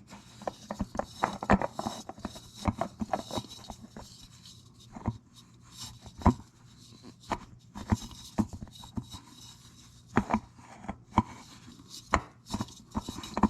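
Irregular sharp clicks and light taps of a spin-on oil filter being turned and reseated against the filter mount of a Branson 3725h tractor engine, its threads not catching.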